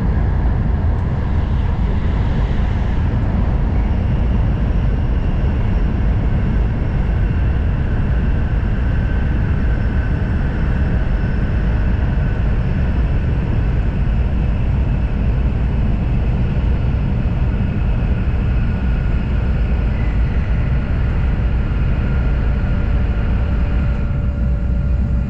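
N700 series Shinkansen running at speed, heard from inside the passenger car: a steady loud rumble with faint steady whining tones above it.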